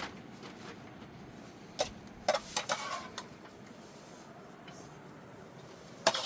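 Dishes and cooking utensils clinking and knocking a few times over a faint, steady hiss, with a cluster of clinks about halfway through and a sharper knock near the end.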